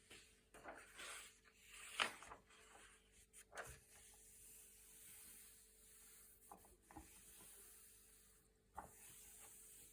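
Thick, glossy paper pages being turned: faint rustling with short snaps as each page flips, the sharpest about two seconds in.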